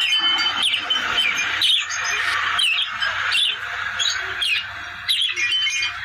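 A bird chirping over and over, short sharp calls about one or two a second, over a steady hiss.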